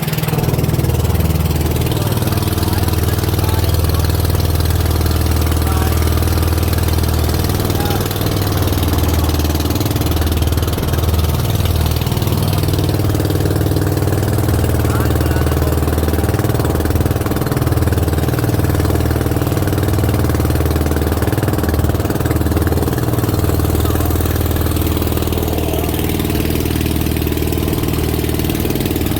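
Boat engine running steadily under way, a low, even drone.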